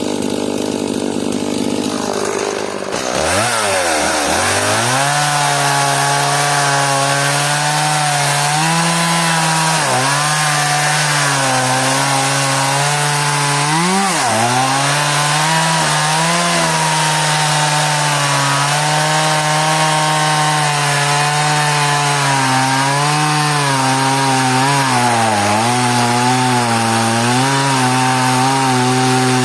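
Stihl MS180 two-stroke chainsaw at low speed, then revving up to full throttle about three seconds in and cutting hard elm. Its high engine pitch sags briefly several times as it works through the wood.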